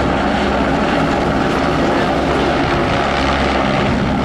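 Navy helicopters running, a steady din of rotor and turbine noise with low hum tones held throughout.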